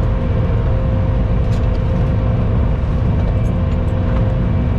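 Skid steer engine running steadily under load, a constant rumble with a steady hum that holds one pitch.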